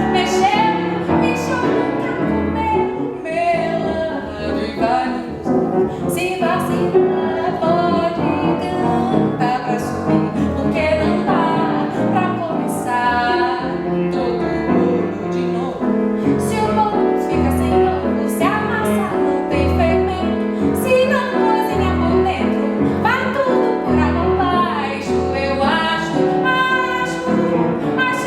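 A woman singing a Brazilian popular song with piano accompaniment, performed live.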